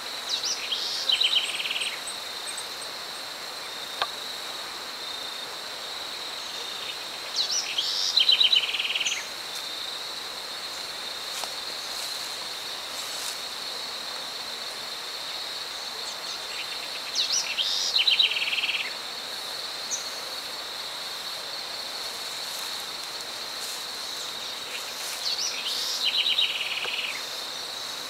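A steady high insect trill runs throughout. Over it a bird sings the same short song four times, about every eight seconds; each song is a quick pulsed series of notes stepping down in pitch and lasting about two seconds.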